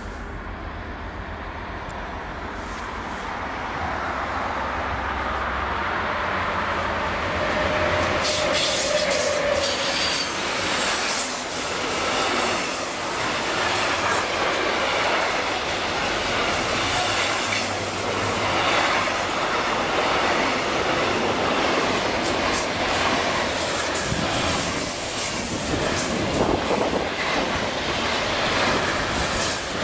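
Container freight train passing on curved track. Its rumble grows over the first several seconds as it approaches, then the long line of container wagons runs by close, with clattering wheels and thin high-pitched wheel squeals.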